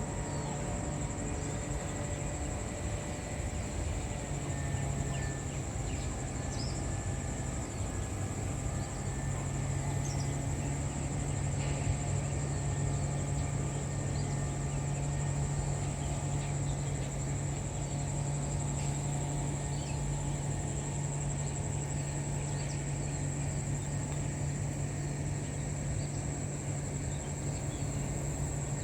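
A boat's engine running with a steady low hum, under a constant high-pitched insect drone and a few faint chirps.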